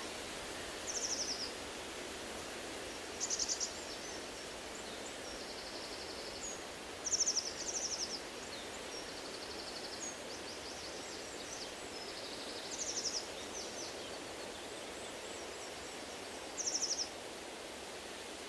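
Steady rush of wind through trees, with a songbird singing short, high trilled phrases about six times, every few seconds.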